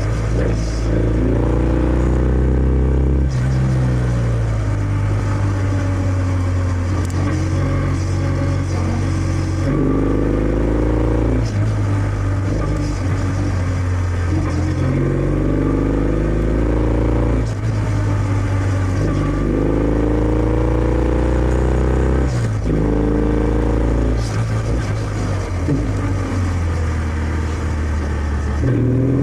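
Kawasaki W650's air-cooled parallel-twin engine through its stock exhaust, accelerating on the move: the pitch climbs through each gear and drops back at each shift, several times over.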